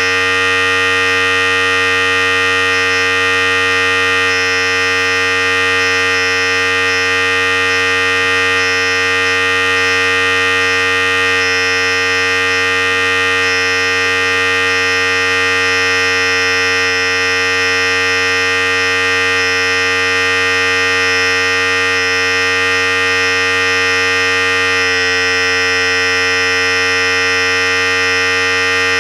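Philips Series 5000 electric hair clipper running continuously: a steady, loud buzz whose tone shifts slightly about 25 seconds in.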